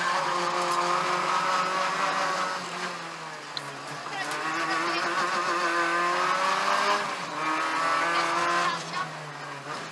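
Peugeot 205 1.9 GTI rally car's four-cylinder engine heard from inside the cabin, driven hard: loud at first, easing off about three seconds in, then climbing in pitch again from about four seconds, with brief lifts around seven seconds and near the end.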